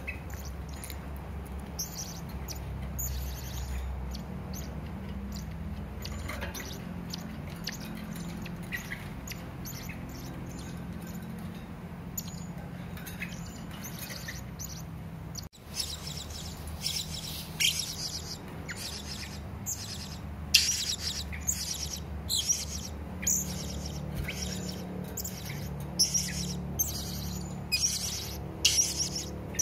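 Serindit (hanging parrot) calling in short, sharp, high chirps. The chirps are sparse and fainter at first; after a sudden cut about halfway through they come thick and louder. A steady low hum runs underneath.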